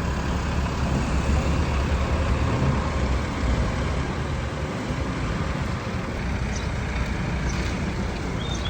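A truck engine running, a steady low rumble. A few short high chirps come near the end.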